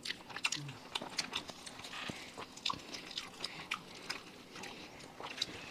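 People chewing and biting into egg rolls: irregular small clicks and smacks of eating, at a fairly low level.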